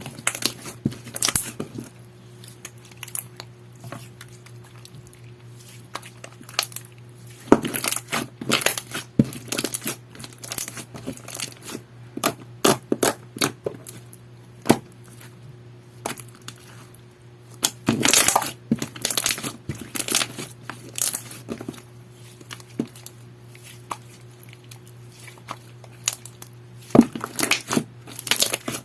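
Clear slime being squeezed and stretched by hand: bouts of wet crackling and popping clicks lasting a few seconds each, with quieter stretches between them, over a steady low hum.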